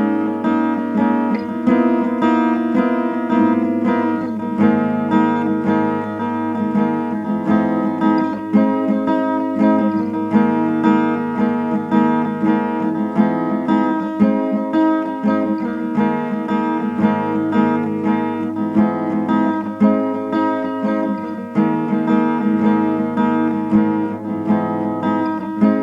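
Instrumental guitar music: strummed, sustained guitar chords in a steady, regular rhythm, with no vocals.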